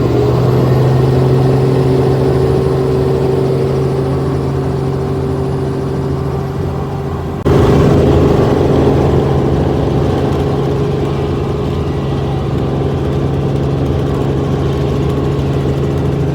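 Helicopter turbine and rotor running steadily at close range, a loud even drone with a low hum and a higher whine. About seven and a half seconds in the level jumps suddenly, then holds steady.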